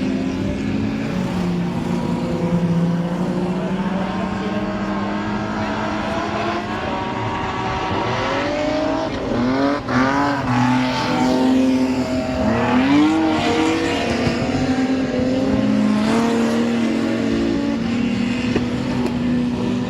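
Several stock car engines racing around the track, their pitch rising and falling as the cars accelerate and pass, with the busiest run of revving and passes from about eight to thirteen seconds in.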